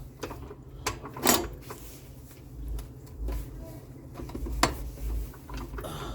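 Scattered metallic clicks and knocks of hand tools and suspension parts being handled during car suspension work, with one short, louder clank or scrape about a second in.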